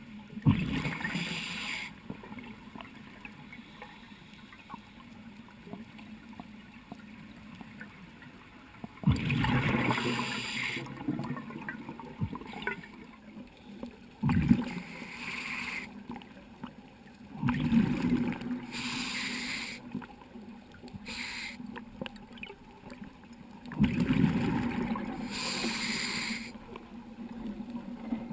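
Scuba diver breathing through a regulator underwater: a bubbling rush of exhaled bubbles every few seconds, with quieter stretches between breaths.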